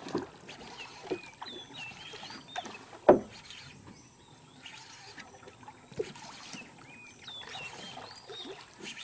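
Birds calling in short whistled chirps, with one loud knock about three seconds in and a fainter click about six seconds in.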